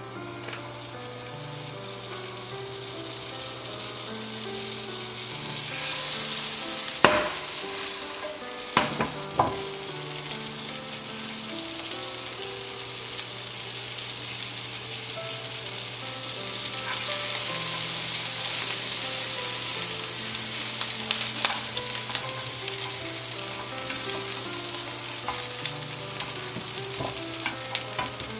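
Butter and asparagus spears sizzling in a hot nonstick frying pan, the hiss growing louder after a few knocks as the spears go in, with occasional tong clicks against the pan. Soft background music underneath.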